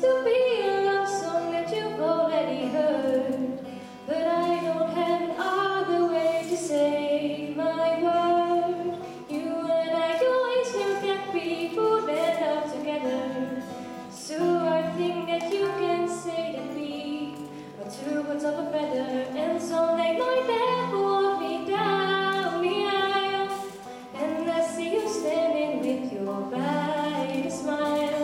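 A young woman singing a pop song over instrumental accompaniment, in sung phrases of a few seconds with short breaths between them.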